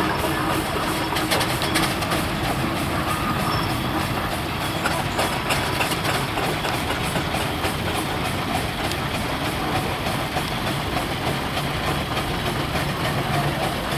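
Steam traction engine running steadily, a continuous mechanical rumble with a few light clicks.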